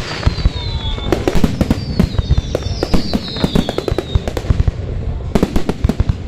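Fireworks going off in rapid succession: a dense run of bangs and crackling reports, with several falling whistles in the first few seconds and a cluster of heavier bangs near the end.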